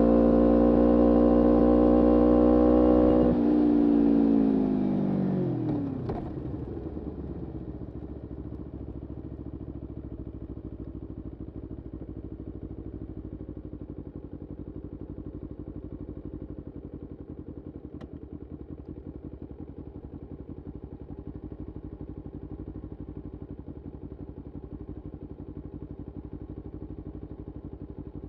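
Kawasaki Ninja 250R's parallel-twin engine, breathing through a full Graves race exhaust, held at high revs and climbing slightly. About three seconds in the revs fall away over a couple of seconds, and it settles into a steady, loping idle.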